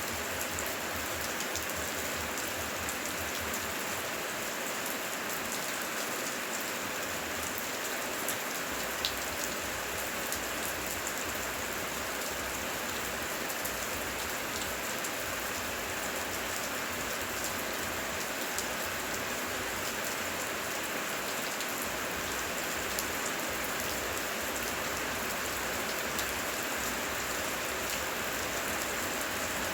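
Heavy rain falling steadily: a dense, even hiss with many scattered sharper drop impacts.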